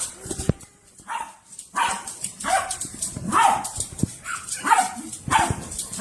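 Dog barking repeatedly, about seven short barks at roughly one a second.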